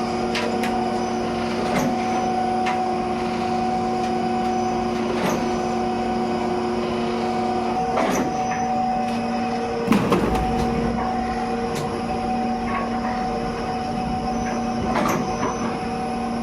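Soap factory machinery running with a steady, many-toned hum, part of which stops about eight seconds in, with scattered knocks and clanks; the loudest knock comes about ten seconds in.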